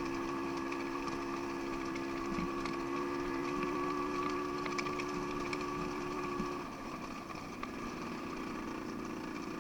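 Dirt bike engine idling steadily; a steady hum in it stops about two-thirds of the way through, leaving a slightly quieter running sound.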